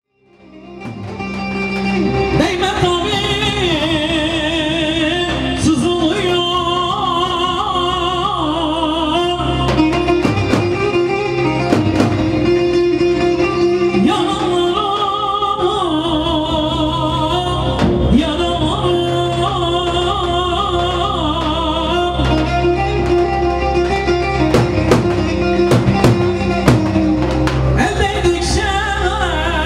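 Turkish wedding-band music: a heavily ornamented, wavering melody over steady low notes, with a voice singing and occasional sharp drum hits. It fades in over the first couple of seconds.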